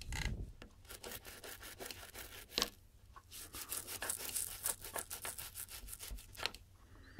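Rapid, faint scrubbing strokes as dirty equipment parts are rubbed clean, with a short pause about three seconds in.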